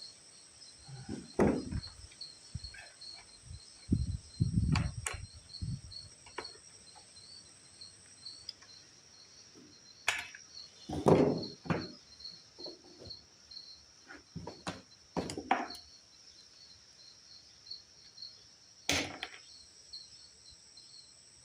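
Intermittent clunks, clicks and rustles of hands and tools working on a small generator's fuel line and hose clamps. Behind them, a steady high pulsing chirp of insects.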